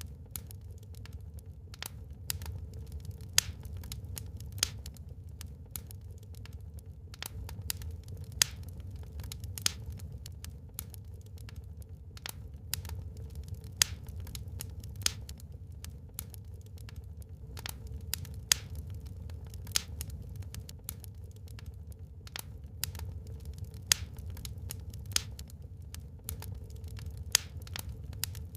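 Wood fire burning in a fireplace: irregular sharp crackles and pops from the burning logs, a dozen or so louder ones standing out, over a steady low rumble.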